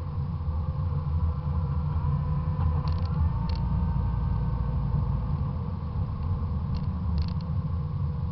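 Fox-body Mustang 5.0's V8 engine rumbling at low speed, picked up by a camera suction-mounted on the front fender. A few faint clicks come about three seconds in and again near the end.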